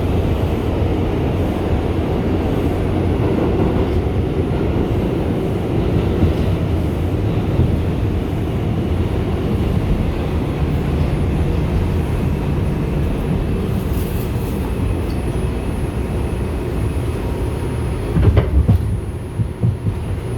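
Steady noise of an R142 subway train car, with a few sharp knocks about three-quarters of the way through.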